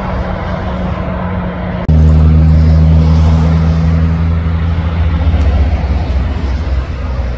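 Heavy truck diesel engines running: a steady engine hum, then about two seconds in an abrupt jump to a much louder, deep, steady engine drone that eases off slightly near the end.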